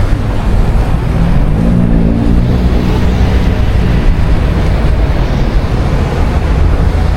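City street traffic: a loud, steady low rumble of passing vehicles, with an engine hum standing out for a second or so about two seconds in.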